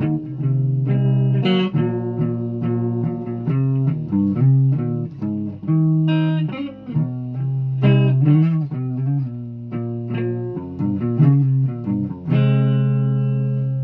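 A guitar played note by note: a run of plucked notes, mostly low, ending on one long held note near the end.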